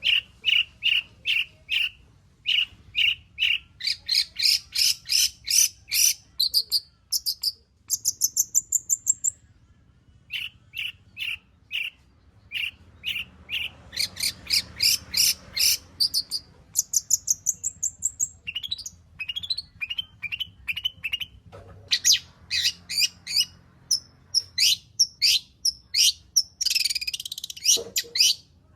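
Long-tailed shrike (cendet) singing continuously in fast runs of short, sharp chirps and trills, switching between different note patterns as it works through its mimicked repertoire, with a harsher scratchy phrase near the end.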